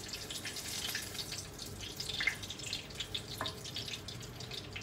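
Tuna spring rolls frying in oil in a pan: a steady sizzle full of small crackling pops.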